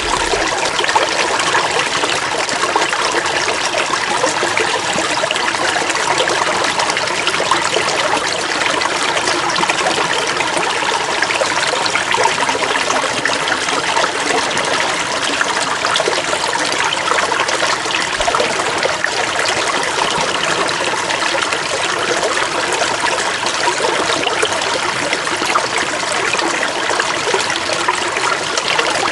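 Running water trickling and splashing steadily, as in a stream.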